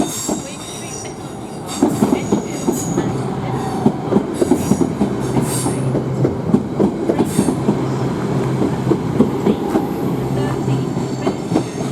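Class 323 electric multiple unit moving through the station. Its wheels clatter in quick irregular clicks over rail joints and pointwork, over a steady low hum from the train, growing louder about two seconds in.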